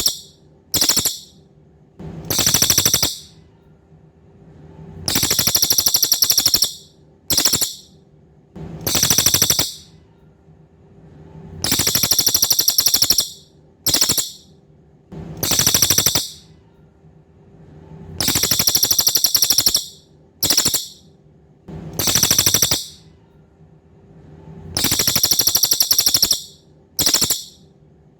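Cililin songbird singing a high, rapid buzzing trill in repeated phrases: a long trill of about a second and a half, a short burst, then another long trill, the sequence coming round about every six to seven seconds. A faint steady hum runs underneath.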